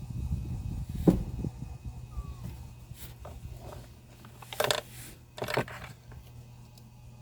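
Bench repair handling noises over a steady low hum: a sharp click about a second in, then two short rustling scrapes just past the middle.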